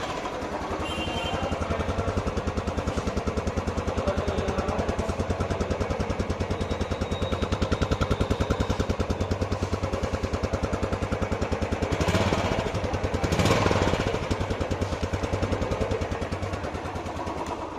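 Royal Enfield Classic 350 BS6 single-cylinder engine idling through its exhaust with a steady, even thump. It is briefly revved twice near the end.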